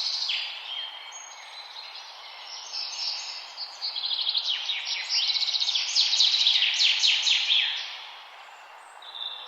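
Several songbirds singing at once, overlapping rapid trills and chirps that get busiest and loudest in the middle and thin out near the end, over a steady background hiss.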